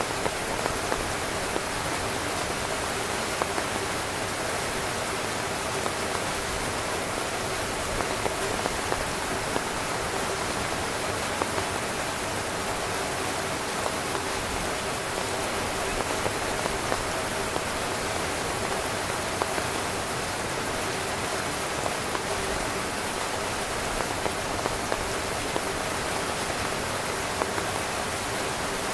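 Heavy rain drumming steadily on a tent's fabric, an even hiss with many small drop impacts scattered through it.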